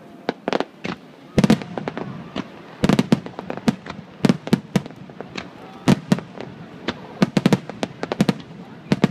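Fireworks display: aerial shells bursting in many sharp bangs at irregular intervals, some in quick runs, with deeper, louder booms about a second and a half in and again about three seconds in.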